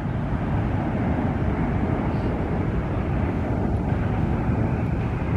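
Jet airliner's engines, a steady low noise.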